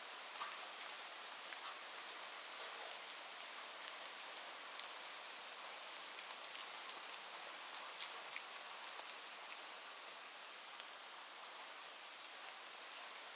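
Steady rain falling, a soft hiss with many small drop ticks scattered through it.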